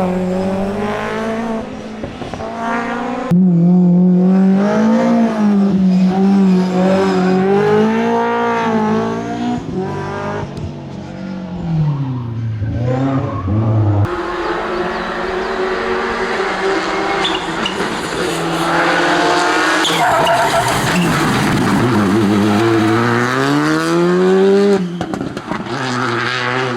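Rally car engines revving hard through corners, the pitch climbing and dropping with each gear change and lift, with tyre squeal. The sound changes abruptly about three seconds in and again about halfway, as a different car takes over.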